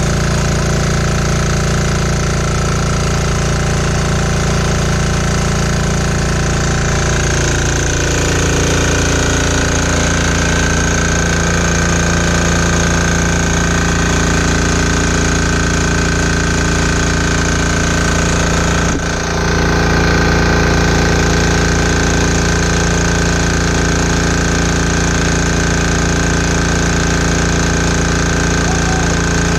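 Chinese 168F-type single-cylinder air-cooled diesel engine running a generator at steady speed on #2 diesel, with a hard, rapid diesel clatter. A brief dip about two-thirds through, after which it runs slightly louder.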